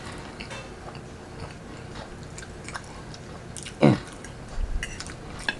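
Close-miked chewing and mouth sounds of someone eating, with small wet clicks and smacks. About four seconds in comes a short vocal sound falling in pitch.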